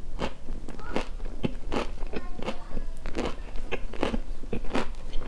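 A person chewing a mouthful of crunchy singju, a Manipuri salad, with his mouth closed: a steady run of crisp crunches, about two to three a second.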